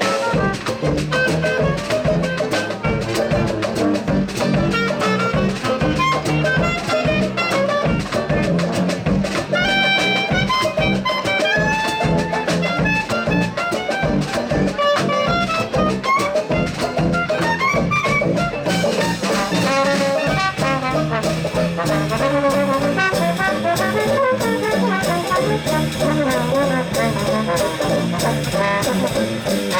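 Big band swing music: a brass section of trumpets and trombones playing over a steady swing beat, with the full band growing fuller and brighter about two-thirds of the way through.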